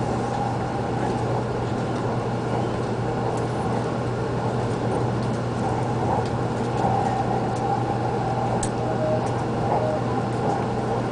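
Interior of a Hakata-Minami Line train running between stations: a steady rumble of wheels on rail with a low hum and a faint steady whine.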